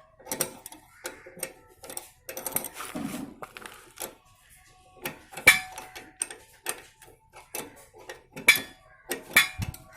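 Irregular metallic clicks, taps and scrapes of a spanner working the lock nut on a Royal Enfield 350's rear brake pedal adjuster as it is loosened. There are a few sharper knocks, about five and a half, eight and a half and nine and a half seconds in.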